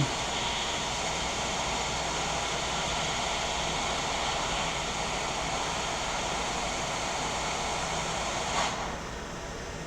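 Hot air rework station blowing a steady stream of air over a laptop motherboard while a component is reflowed into place; the rushing drops away about nine seconds in.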